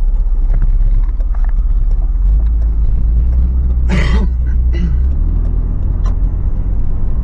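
Low in-cabin rumble of a Toyota 4Runner on the move, its 4.0-litre V6 and large off-road tyres droning steadily; the low note steps up in pitch about five seconds in.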